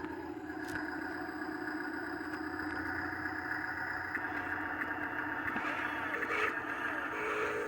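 Dump truck's engine running steadily, with light clatter. Near the end, a short pulsing tone joins it.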